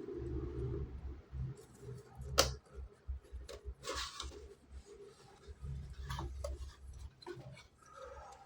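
Hands handling boxed miniatures and their packaging: scattered clicks and taps, the loudest a sharp click about two and a half seconds in, with a short rustle about four seconds in, over a low rumble of handling noise.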